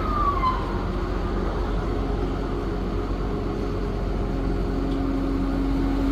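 A 250-ton hydraulic crane's diesel engine running steadily. There is a brief falling squeal near the start, and the engine hum climbs slightly in pitch near the end.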